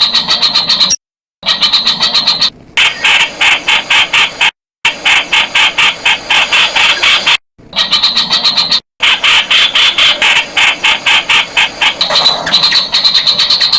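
Streak-eared bulbul calling: rapid runs of sharp, chirping notes, about eight a second, in stretches cut off abruptly by several brief dead-silent gaps.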